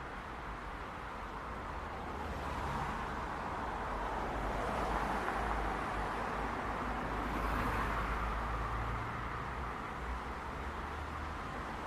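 City street traffic: a steady wash of tyre and engine noise from passing cars with a low rumble, swelling a little as vehicles pass in the middle.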